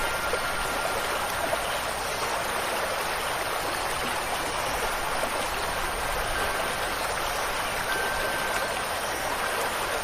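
Steady rushing water, an even hiss with no breaks. Now and then a few faint high ringing notes from wind chimes hang over it.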